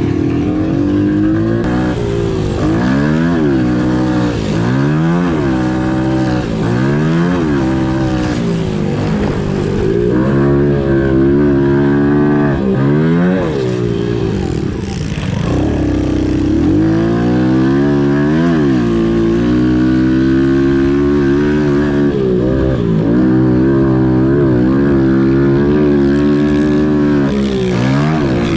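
Small single-cylinder pit bike engines at racing throttle, the pitch rising and dropping back again and again about every second or two as they rev out, shift and back off.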